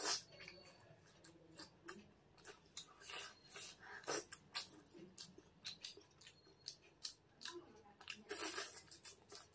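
Close-miked mouth sounds of eating whole boiled eggs in masala curry: soft, wet chewing with many short smacking clicks, and louder bites at the start, about four seconds in, and near the end.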